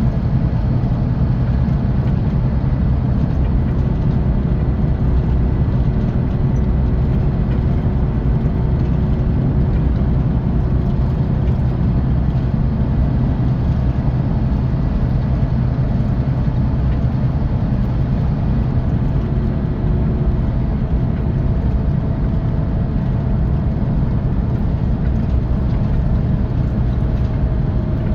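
Scania OmniExpress 360 coach's 13-litre six-cylinder diesel and tyre noise heard from inside the bus, a steady low hum while cruising at an even speed.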